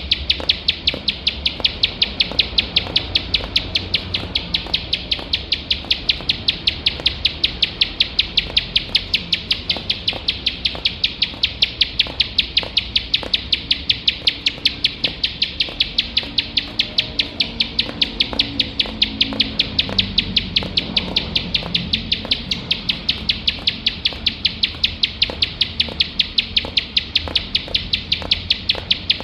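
Ciblek sawah (a field prinia) calling a rapid, unbroken string of short, sharp high notes, about five a second, kept up without a break.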